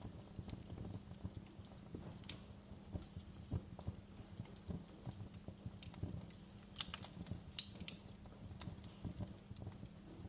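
Wood fire crackling in a fireplace: a steady low rumble of burning logs under irregular small pops and snaps, with a few sharper pops about two seconds in and around seven to eight seconds.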